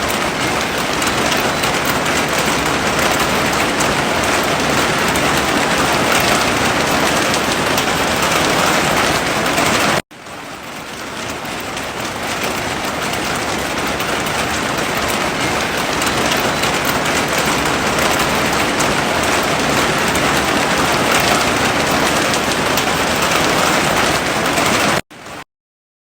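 Heavy rain falling in a steady, dense hiss. It cuts out suddenly about ten seconds in and swells back, then drops out briefly again near the end.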